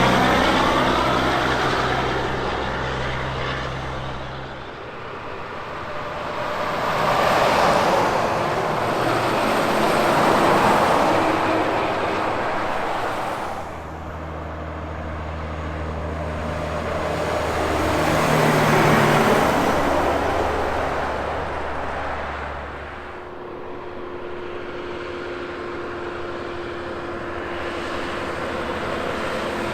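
Heavy trucks and other vehicles passing on a highway one after another, engine and tyre noise swelling and fading several times, with a steady low engine drone at times between the passes.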